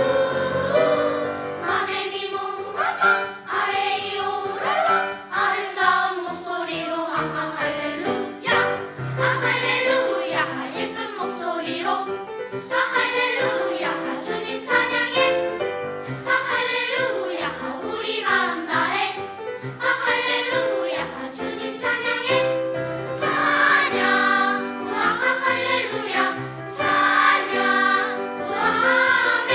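Church choir singing a sacred anthem, many voices together in parts.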